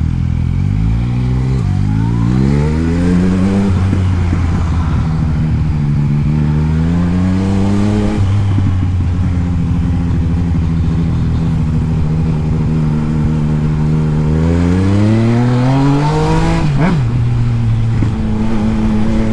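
Yamaha MT-09's three-cylinder engine pulling through the gears while riding: its pitch climbs and drops back several times, then runs steadily between climbs. About three seconds before the end there is one quick, sharp rev spike.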